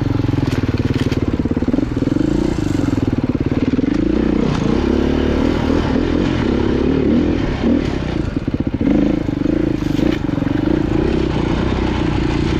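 Off-road motorcycle engine running on the trail, its pitch rising and falling as the throttle opens and closes.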